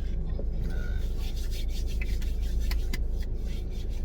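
Hands rubbing and rustling together as they are cleaned, a run of short scratchy rubs and clicks over the steady low rumble of the car's running engine inside the cabin.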